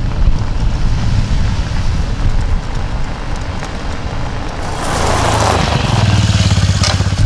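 Car driving: a steady rumble of engine and road noise that grows louder about five seconds in.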